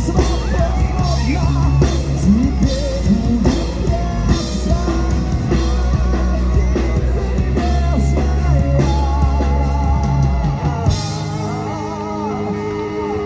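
Live rock band playing: drum kit, bass and electric guitar, with a wavering melody line over the top. The drums and bass drop out about eleven seconds in, leaving the melody ringing as the song closes.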